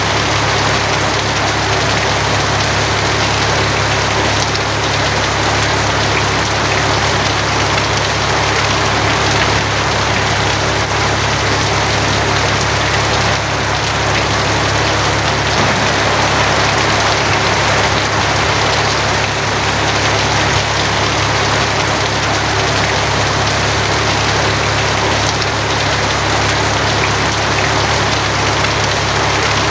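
Steady, heavy rain drumming on a tin roof, an even dense patter with no let-up, over a steady low hum.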